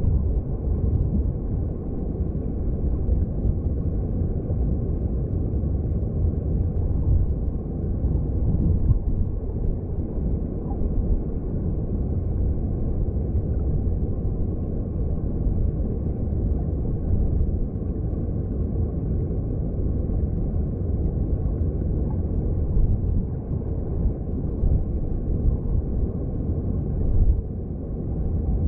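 Mountain stream heard underwater: a steady low rumble of flowing water, with little high sound in it.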